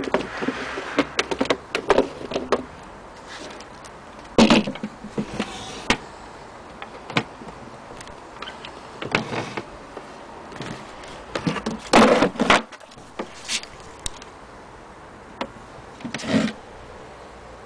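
Irregular clicks and knocks, with four short, louder rattling scrapes, the loudest near the middle, as parts of an antique Singer 12K sewing machine are handled and moved.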